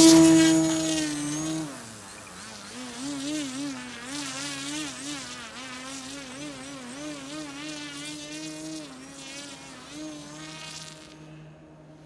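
Electric motor and propeller of an E-flite Timber X RC plane whining at high throttle, loudest at the start. The buzz then wavers up and down in pitch as the plane flies around, grows fainter, and drops away near the end.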